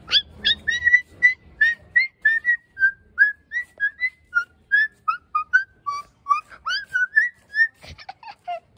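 A bird singing a long run of short whistled notes, about three a second; the pitch steps down through the middle and climbs back up near the end. A few clicks follow at the very end.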